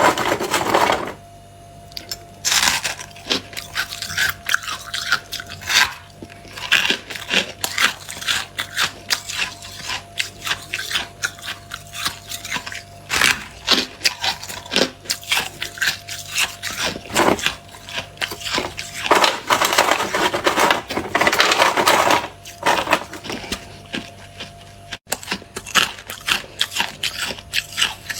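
Freezer frost crunching and being scraped: a dense, irregular run of sharp crunches, broken by a few longer scraping strokes.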